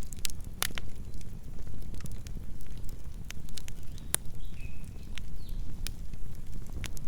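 Campfire burning, with a steady low rumble of the flames and irregular sharp crackles and pops from the burning wood.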